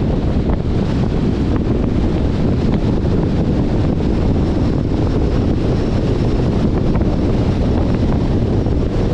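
Steady wind rushing over the microphone of a camera on a moving car, with low road and tyre noise from the 2021 Jeep Compass underneath.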